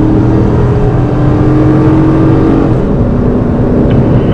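Chase car running at high speed down the runway, heard from inside the cabin: a loud, steady engine note with road and wind rumble.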